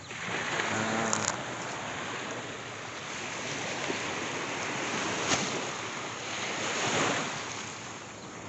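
Sea waves washing onto the shore, a steady rushing noise that swells and eases, with wind on the microphone.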